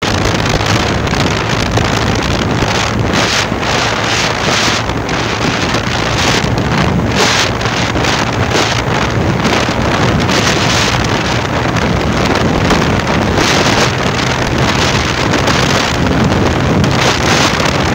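Wind buffeting the microphone of a motorcycle riding at speed, in uneven gusts, over a steady low hum from the bike's engine.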